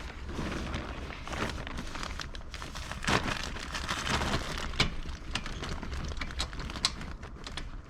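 Irregular rustling and crinkling with scattered light clicks and knocks, over a low steady rumble.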